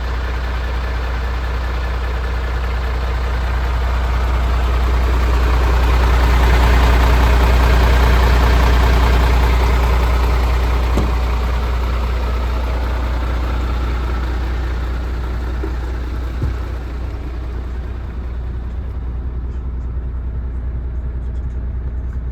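MAN TGX 470 hp Euro 6 straight-six diesel idling steadily at an even pitch, growing louder through the first third and easing off again.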